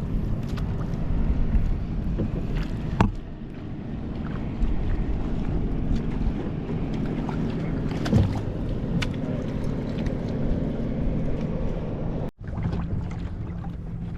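Wind buffeting the microphone and water moving around a kayak hull, with a few sharp knocks against the boat about 3 and 8 seconds in.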